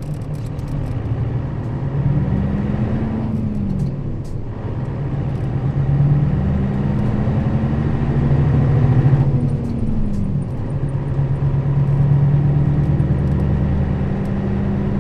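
Diesel engine of a Nissan Diesel KL-RA552RBN route bus pulling away and accelerating, heard inside the bus. Its pitch climbs and drops twice, at gear changes about three and a half and ten seconds in, then holds steady.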